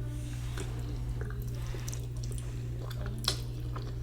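Close-up mouth sounds of eating ramen noodles: soft wet chewing and squishing with small scattered clicks, and one sharper click about three seconds in, over a steady low hum.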